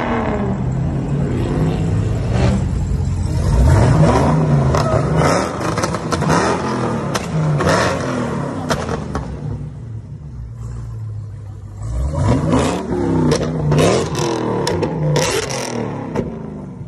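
Dodge Charger Hellcat's supercharged 6.2-litre V8 revved hard again and again, its pitch rising and falling, with sharp cracks scattered through it. The sound fades near the end as the car pulls away.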